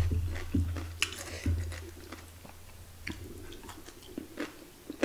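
Close-up chewing and crunching of raw cucumber, with scattered short wet mouth clicks. A low hum sits under the first second and a half.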